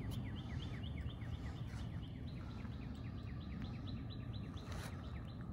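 A songbird singing a long, steady series of short repeated chirps, about five a second, over a low background rumble.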